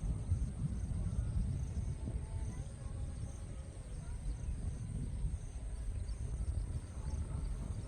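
Outdoor nature ambience: an uneven low rumbling noise, with faint insects trilling steadily and chirping in a regular pulse about twice a second.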